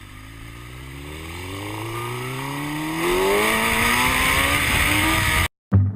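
A car engine accelerating, its pitch and loudness rising steadily for about five seconds before cutting off abruptly.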